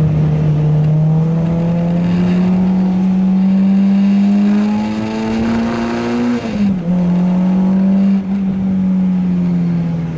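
Renault Clio 2 RS's 2.0-litre four-cylinder engine pulling hard under acceleration, revs climbing steadily, then a quick upshift about six and a half seconds in, after which it runs at high revs and starts to ease off near the end.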